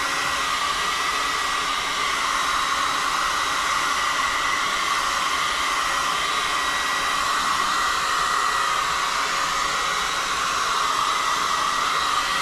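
Electric heat gun blowing hot air steadily over freshly applied plastic primer to flash it off. It cuts off suddenly near the end.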